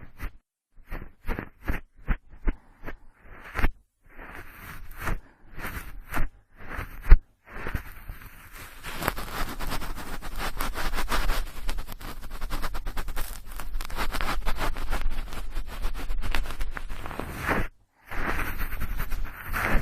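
Close-up cotton swab rubbing and swirling in the ear of a binaural microphone: a few short separate strokes first, then continuous scratchy rubbing that stops briefly near the end and starts again.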